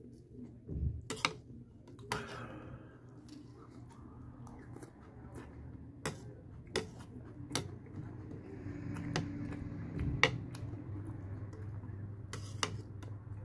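Metal spoon clicking and scraping against a plastic bowl while scooping Cheerios and milk, with soft chewing in between. The sharp clicks are scattered and irregular over a low steady hum.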